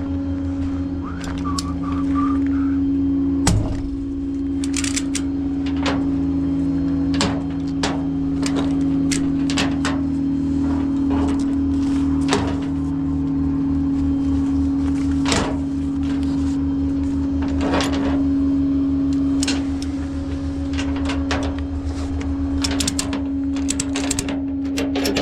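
Vehicle engine running steadily while driving, a constant drone with a low pulsing underneath, and frequent short clicks and rattles throughout.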